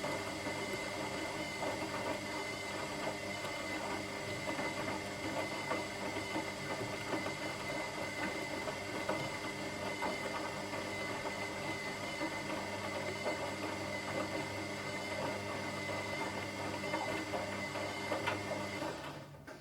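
Washing machine running: a steady mechanical hum with a high motor whine over the churning of the drum. The motor and whine cut off suddenly near the end, leaving a much quieter hum.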